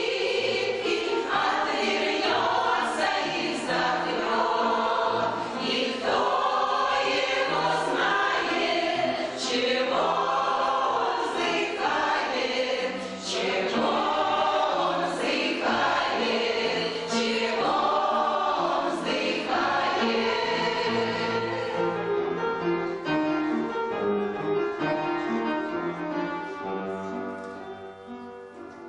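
An amateur veterans' choir sings in chorus with instrumental accompaniment. About 22 seconds in the voices stop, and the accompaniment plays on alone with held notes, fading toward the end.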